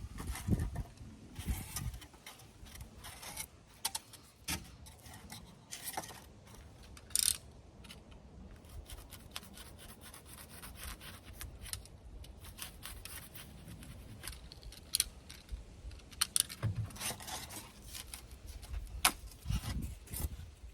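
Handling and working noises: scattered sharp clicks and taps among short rubbing and scraping sounds, irregular and stop-start, with a few louder knocks near the end.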